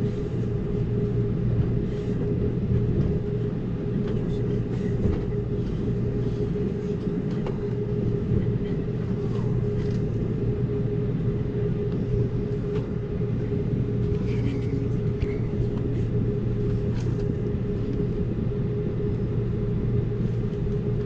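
Amtrak Cascades passenger train running at speed, heard from inside the coach: a steady rumble with a constant hum and scattered faint clicks and knocks from the running gear.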